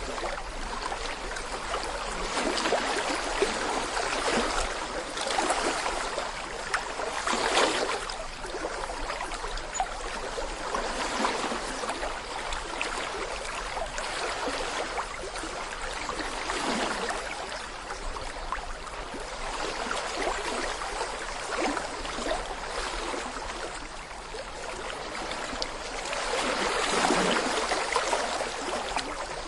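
Small brook babbling and gurgling over stones, a steady rush of running water with surges that swell louder now and then, most strongly about a quarter of the way in and near the end.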